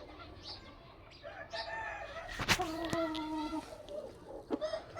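Aseel rooster crowing: one long crow of about two and a half seconds starting about a second in, with a sharp click partway through and a shorter call near the end.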